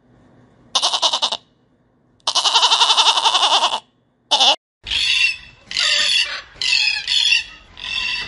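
A goat kid bleating three times with a fast quaver, the middle bleat long. From about halfway, piglets squeal in a quick series of short repeated calls.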